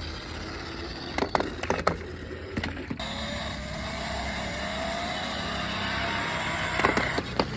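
Toy car's small motor whirring, its whine rising slowly in pitch, with sharp plastic clicks and knocks a second or two in and again near the end.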